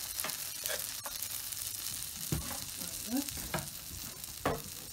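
Cheese-filled potato farls sizzling on a dry ridged grill pan, with melted cheese leaking onto the hot surface: a steady hiss broken by a handful of sharp clicks, the loudest near the end.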